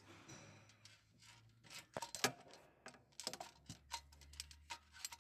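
Scattered light clicks and taps from a magnet probe being worked around the pushrod area of an opened Evotech 2.7 engine, searching for metal fragments from a broken pushrod seat.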